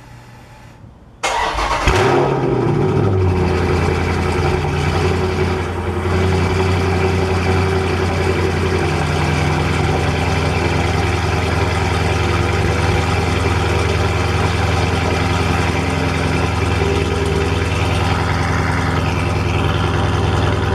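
Dodge car's engine cold-started: it fires about a second in, flares briefly, then settles into a steady idle.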